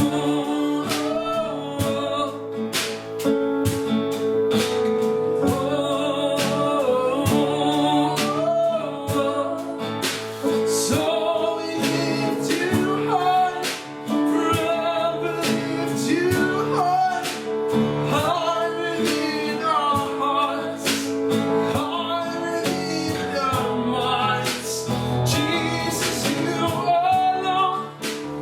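Gospel-style worship song: voices singing a melody over strummed acoustic guitar.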